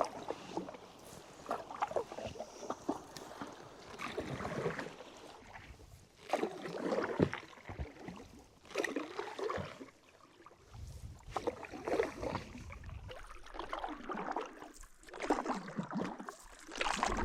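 Paddle strokes in calm lake water: the blade splashes in and drips about every two to two and a half seconds.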